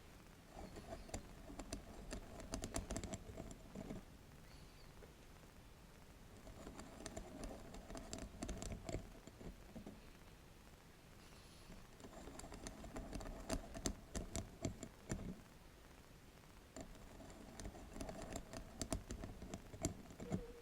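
Tapping and scratching on a bamboo mat, in four bouts of a few seconds each, with quick dry clicks over a scratchy rustle and short quiet gaps between.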